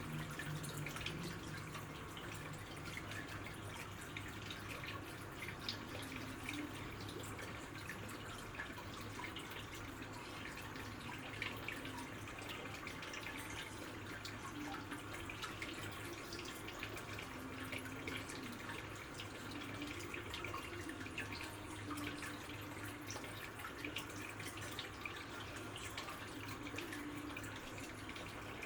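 Water trickling and dripping, with many small splashes, over a steady low hum.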